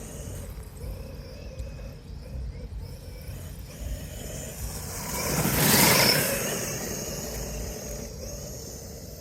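Large RC car driving through grass, passing close by about five to six seconds in, its sound swelling and fading, over a steady low rumble.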